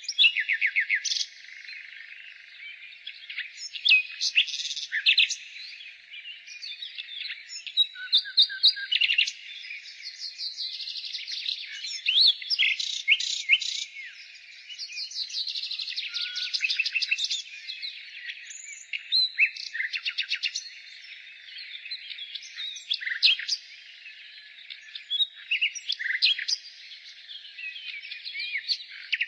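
Nightingale singing, one varied phrase after another: fast runs of rapidly repeated notes, whistles and trills, with short pauses between phrases.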